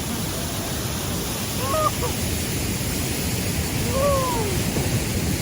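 Waterfall and rapids rushing, a steady loud noise of falling water, with three brief gliding calls heard over it.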